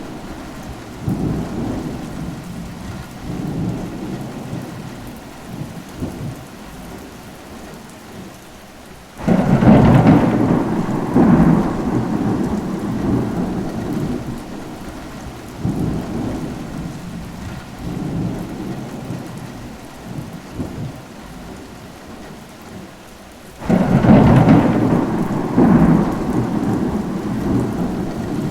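Steady rain with thunder rolling over it. Two loud rumbles start suddenly, about nine seconds in and again near the end, and each fades over several seconds, with quieter rumbles between.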